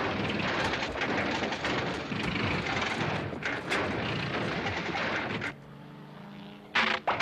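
Volkswagen Beetle's air-cooled flat-four engine running rough with dense crackling and popping. About five and a half seconds in it drops to a quieter low hum, then a couple of sharp backfire bangs come near the end: the engine is misfiring.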